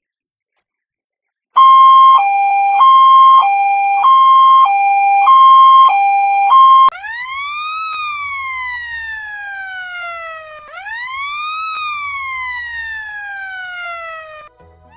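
Emergency-vehicle siren: a loud two-tone hi-lo siren alternating between two notes about twice a second starts about a second and a half in, then switches to a wailing siren that rises quickly and falls slowly, twice.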